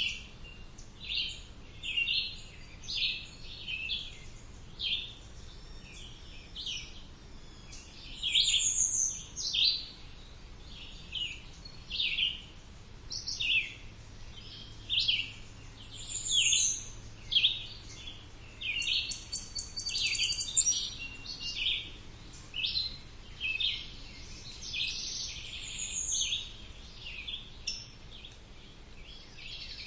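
Wild songbirds chirping and singing, with short calls coming about once a second. Among them are a few high falling notes and some quick trilled runs.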